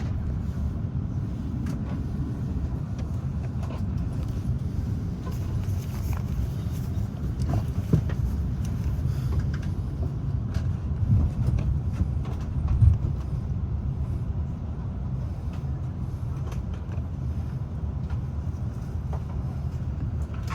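Steady low rumble of an Airbus A330-300 cabin with the engines running as the airliner taxis, with a few short knocks and creaks from the cabin.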